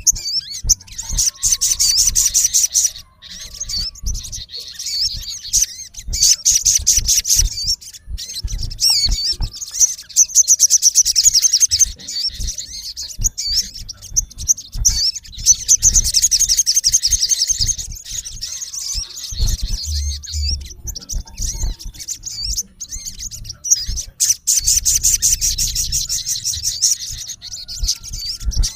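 Male olive-backed sunbird calling in a challenge to a rival: bursts of rapid, high-pitched trilled notes, each lasting a second or two and coming every few seconds. Scattered short clicks and taps sound between the bursts.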